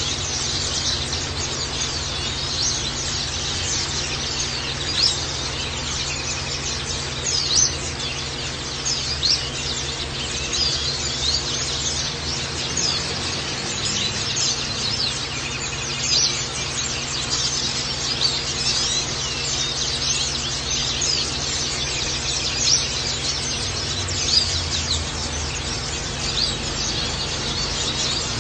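White-eyes (pleci) chirping and twittering, a steady stream of quick, high-pitched calls with a few louder chirps standing out now and then.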